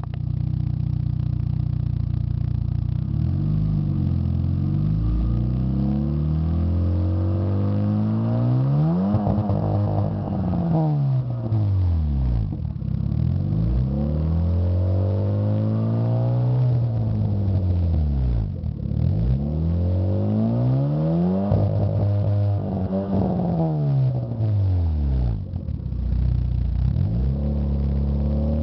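Lada VAZ-2113's four-cylinder engine sounding through a Stinger 4-2-1 sport header, pipe resonator and Sport Muffler, revved up and let fall back several times, its note climbing and dropping with each blip.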